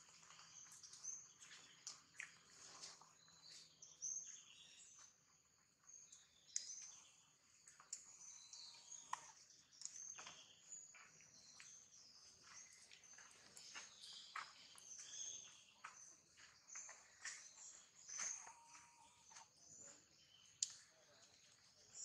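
Faint chorus of small birds chirping, many short high calls overlapping, with scattered light clicks.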